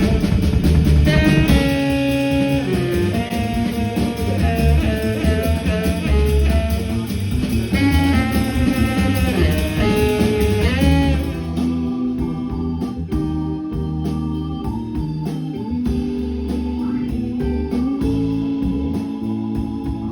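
Band music with guitar and horns playing a dense, jazzy groove. About eleven seconds in it switches to a sparser passage of held notes.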